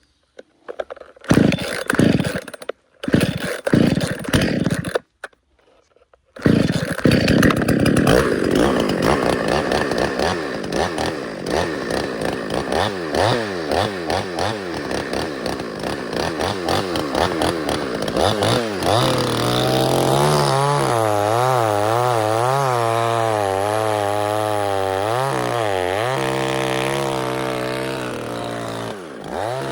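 Two-stroke chainsaw engine. It sounds in a few short loud bursts with gaps, then runs continuously from about six seconds in. In the second half its pitch repeatedly rises and falls as the throttle is worked.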